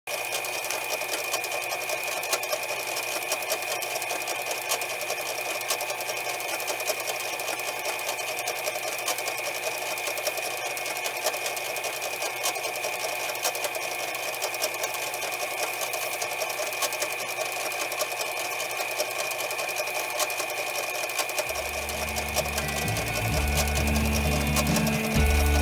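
Small electric motor running steadily with a constant high whine and a fine rapid rattle, like a power tool spinning. Music comes in near the end.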